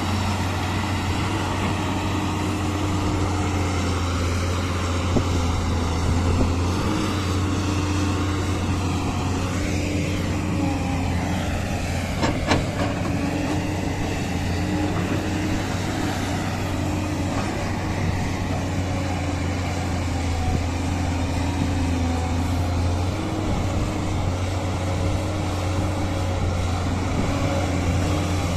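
Heavy diesel earthmoving machinery running steadily, with a strong low engine hum whose pitch wavers slightly, and a single short clank about twelve seconds in.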